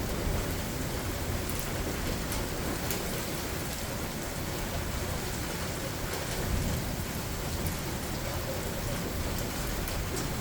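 Steady rain falling during a thunderstorm, with a low rumble of thunder that swells a little in the middle and scattered ticks of drops hitting nearby surfaces.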